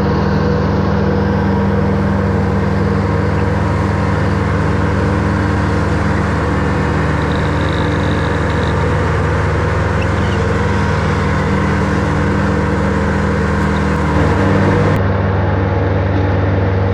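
Tractor engine running steadily while mowing grass with a 6-foot mower deck. The engine note shifts slightly about fourteen seconds in.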